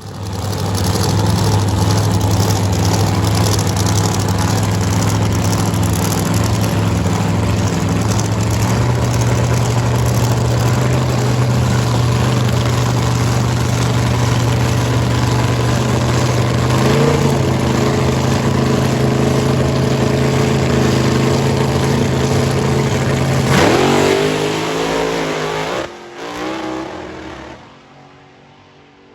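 Drag-racing funny car engine running at a steady fast idle, then revving up sharply about 23 seconds in and fading quickly as the car pulls away.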